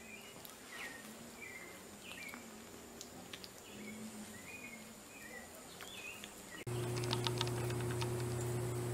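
A bird chirping repeatedly, short notes about two a second, over a steady high thin whine. About two-thirds of the way through, this cuts off and a louder steady low hum begins, with a quick run of clicks over it.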